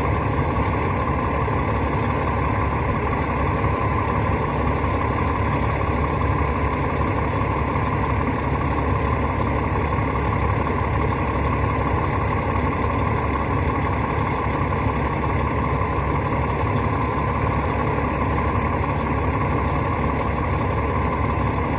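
Rooftop HVAC unit running steadily: a constant low mechanical drone with an even hum in it.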